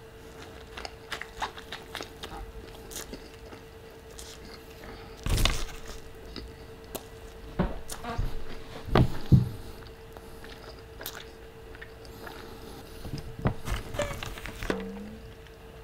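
Close-miked chewing and wet mouth sounds of a person eating a soft breakfast burrito of chorizo, egg and hash brown, with scattered small clicks and a few louder bites or smacks about 5 and 9 seconds in. A faint steady hum sits underneath.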